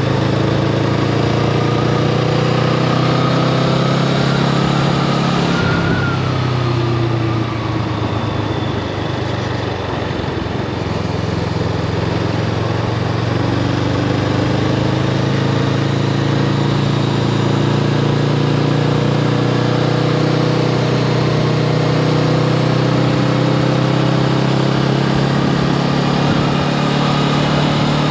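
Honda Rebel 500's 471 cc parallel-twin engine running at a steady note under way, over a constant rush of wind and road noise. The engine note shifts about six seconds in and dips for a few seconds before settling back to a steady pitch.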